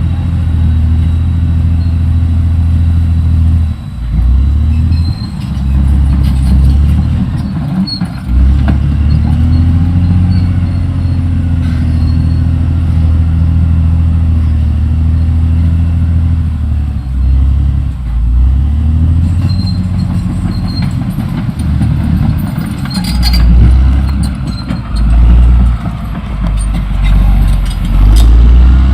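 Caterpillar D6R XL crawler dozer's diesel engine working under changing load, its note rising and falling as it swells and dips, with a few short clanks in the second half.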